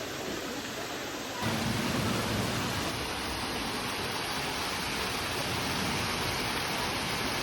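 Steady rushing noise of running water, stepping up abruptly about a second and a half in.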